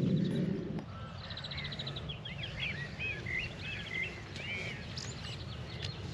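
Small birds singing: a mix of short rising and falling whistled chirps and rapid trills, over a steady low background rumble. A louder low rushing noise dies away about a second in.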